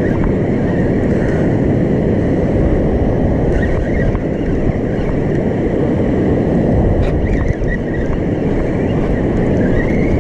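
Steady, loud wind rumbling on the microphone over breaking surf at the beach.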